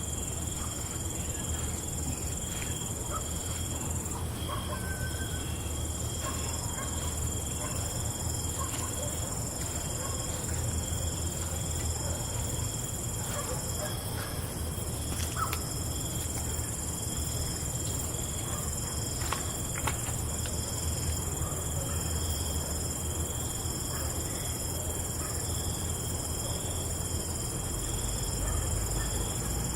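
Night insect chorus: crickets trilling steadily at several high pitches, over a low steady hum, with scattered faint clicks.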